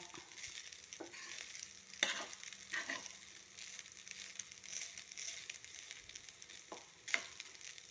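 Rice frying and sizzling in a small wok with soy sauce, stirred with a spatula that scrapes and knocks against the pan a few times.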